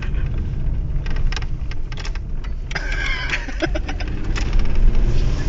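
Steady low rumble of a car's engine and road noise heard from inside the moving car, with scattered light clicks and a brief higher-pitched sound about three seconds in.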